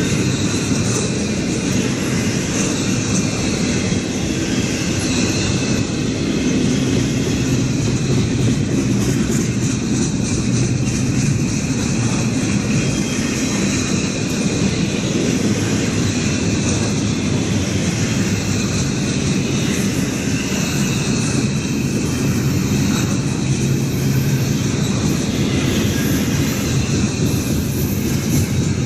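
Norfolk Southern double-stack freight train rolling past: a steady, loud rumble of steel wheels on rail from the passing stack cars.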